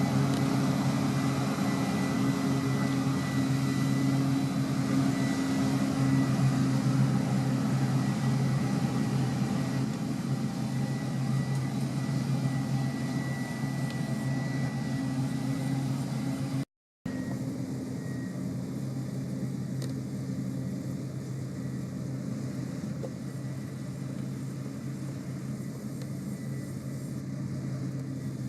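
Heavy farm machinery's diesel engine running steadily under load, with a faint high whine over it. It cuts out for a split second about two-thirds of the way through and then carries on quieter.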